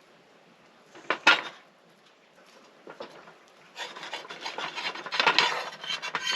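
A utensil scraping and rubbing against cookware while food is worked loose or cut for serving: one short scrape about a second in, then a longer stretch of rapid scraping strokes from about four seconds on.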